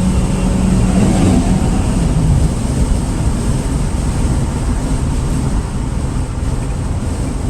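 Car cabin noise while driving: a steady low road and engine rumble, with a low steady drone over the first couple of seconds that fades out.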